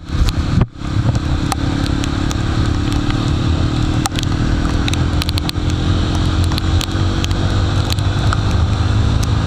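Jawa motorcycle engine running steadily while riding, under a rushing noise with scattered crackles on the microphone.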